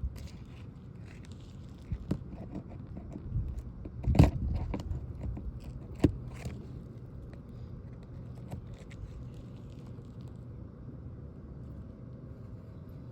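Hand tools scraping and knocking on roof shingles while loosening them to pull the nails, with scattered small clicks and two sharp knocks about four and six seconds in.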